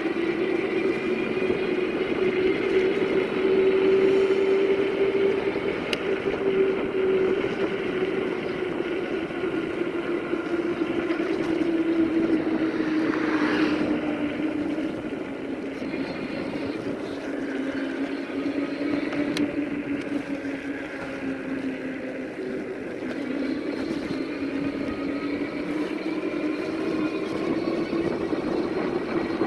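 Cheetah Civi electric fat-tire bike riding along: a steady droning hum over rushing noise, its pitch sagging about halfway through and climbing back as the speed changes. A brief louder rush about halfway in.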